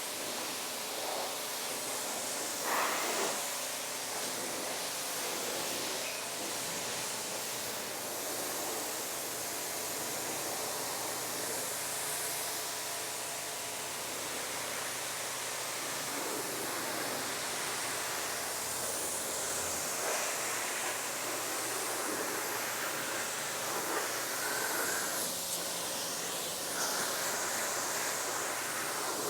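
Steady hiss of water spraying from a hose nozzle onto a car's paint and running off.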